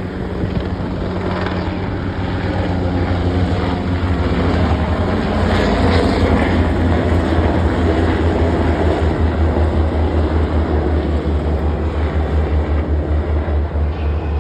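Two military helicopters passing low overhead, which the onlookers take for Apaches: a rapid pulsing rotor beat with turbine noise, growing louder to a peak about six seconds in and staying strong.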